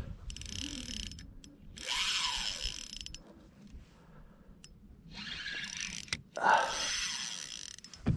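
Fishing reel clicking and whirring in four bursts under the pull of a large hybrid striped bass, as the reel gives or takes line during the fight.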